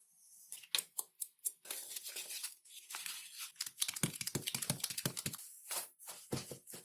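Hand work on craft materials: tearing and crinkling sounds mixed with quick irregular clicks and taps, thickest in a rapid run of clicks and light knocks in the middle.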